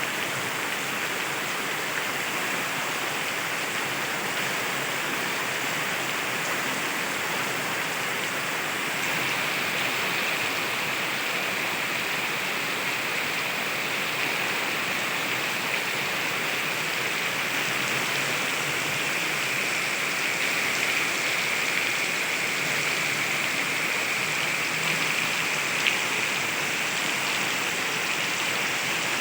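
Heavy rain falling steadily, a dense even hiss that grows a little stronger about a third of the way in.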